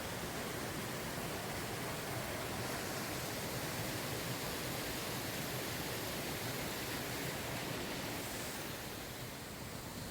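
Steady rushing water, easing slightly near the end.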